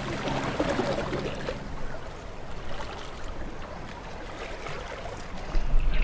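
A motorboat on the lagoon: a low engine hum fades out over the first second or two, leaving the wash of water along the hull. A low rumble comes in near the end.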